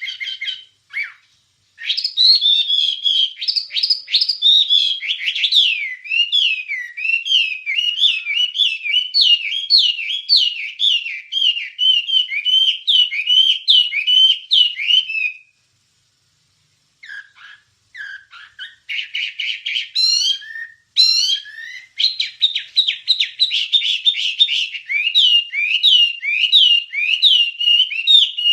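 Wambie songbird singing: long runs of rapid, chattering notes that sweep up and down, repeated several times a second. The song stops for about a second and a half near the middle, then picks up again with a few scattered calls before the fast runs return.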